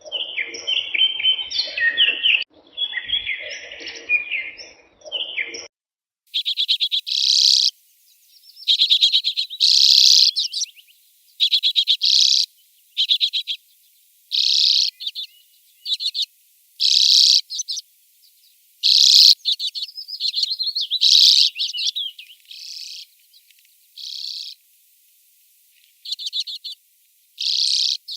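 Songbird song from two recordings: for the first six seconds or so, dense chirping; then a bird singing short, high phrases, about one a second and a half, with brief pauses between them.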